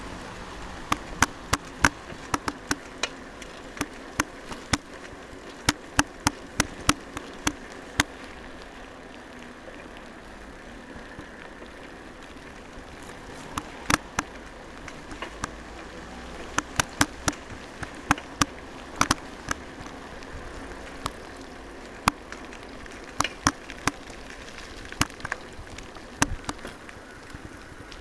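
Raindrops striking the microphone or camera, heard as sharp, irregular taps over a steady hiss, thinning out for a few seconds about ten seconds in.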